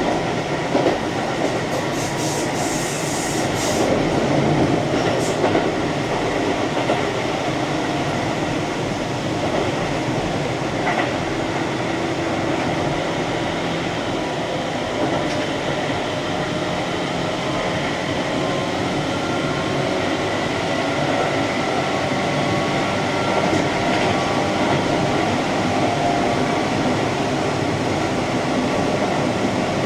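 Keihan electric train running along the line, heard from inside the front car: a steady rumble of wheels on rail with faint motor tones, and a brief high hiss about two seconds in.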